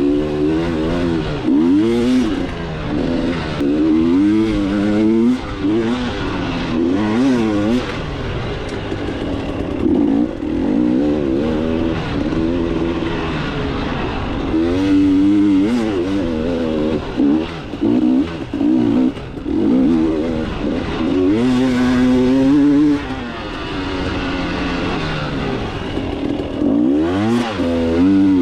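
KTM 300 two-stroke dirt bike engine running under a rider on a trail, its pitch rising and falling over and over as the throttle is opened and chopped through the turns.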